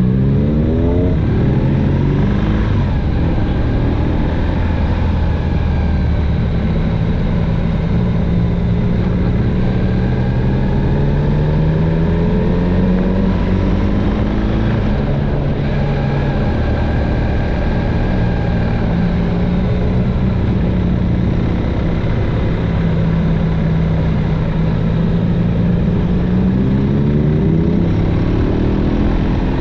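Motorcycle engine on the move, its revs climbing through the gears near the start and again near the end, with steady revs in between. A constant low wind rumble sits on the microphone.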